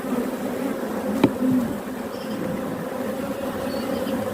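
Honeybees buzzing steadily in a large mass over an open hive. One sharp click sounds about a second in.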